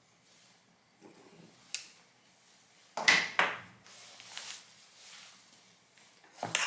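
Handling noise from a laptop teardown: a light click, then a pair of loud knocks about three seconds in and another knock near the end, as hard parts are set down and moved on a workbench.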